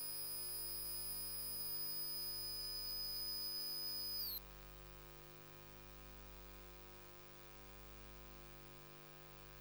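Steady electrical hum with a high-pitched whine over it; the whine cuts off suddenly about four seconds in, leaving a fainter hum.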